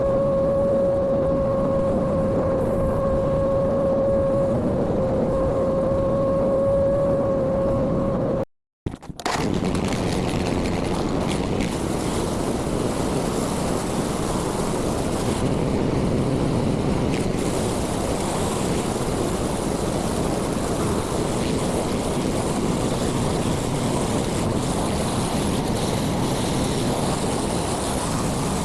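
Mini excavator or dump hauler engine running steadily, with a steady high whine over it for about the first eight seconds. After a brief dropout it runs on as an even noise without the whine.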